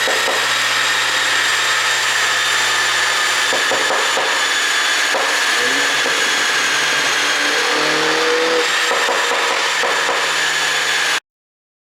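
2018 MINI Cooper JCW F56's turbocharged four-cylinder engine running on a pop-and-bang ECU tune, with a steady hiss over a low engine note; its pitch climbs in a short rev about eight seconds in and drops back. The sound cuts off abruptly near the end.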